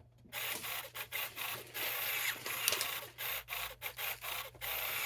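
Rustling and rubbing of bags and small items being rummaged through and handled, in bursts with short gaps, starting about half a second in.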